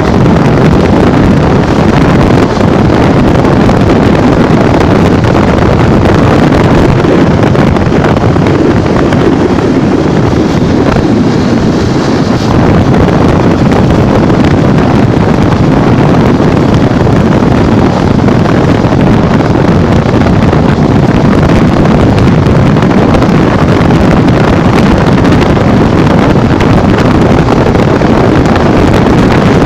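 Loud, steady wind buffeting on the microphone of a Honda Bros 150 motorcycle riding at speed, with the rush of the ride underneath.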